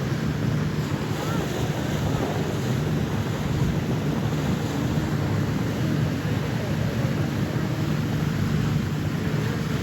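Boat's engine running steadily under way, a low, even drone with wind buffeting the microphone.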